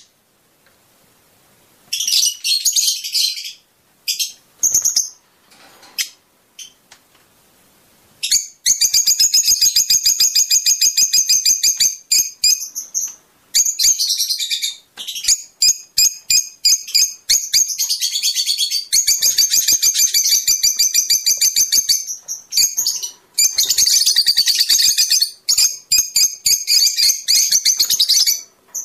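Fischer's lovebirds chirping in rapid, shrill trains of high chirps, in bouts with short pauses. A quiet stretch comes a few seconds in, then long dense runs of chirping.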